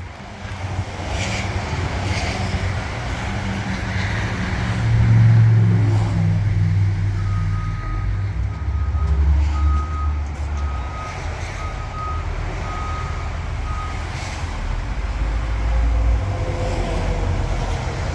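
Caterpillar C15 inline-six diesel of a Kenworth W900 truck running, its pitch and loudness shifting several times. A reversing alarm beeps about once a second through the middle stretch.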